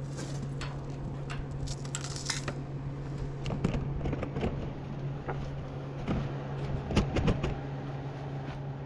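Scattered light metallic clinks and knocks, the loudest in two clusters near the middle and about two-thirds of the way through, over a steady low machine hum.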